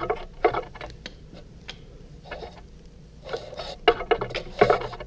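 Metal hand tools clinking and clicking in irregular small clusters as a 19 mm socket or wrench is worked onto the neutral safety switch of a 1974 BMW R90S.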